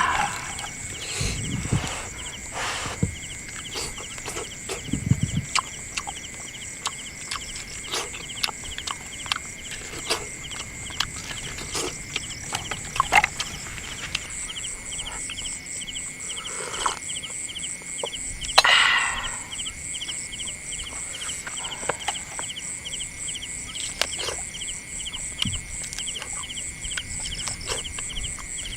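Outdoor bush ambience: a steady chorus of fast, evenly pulsing high-pitched animal calls, with scattered sharp clicks and knocks and one louder call about two-thirds of the way in.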